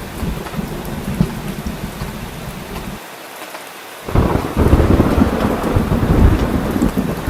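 Heavy rain falling steadily under rolling thunder. The low rumble briefly falls away about three seconds in, then a louder peal of thunder breaks about a second later and keeps rumbling.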